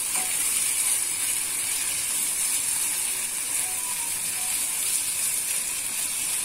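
Vegetable, pizza-sauce and cheese stuffing sizzling steadily in a nonstick pan while it is stirred with a silicone spatula and cooked until the cheese melts.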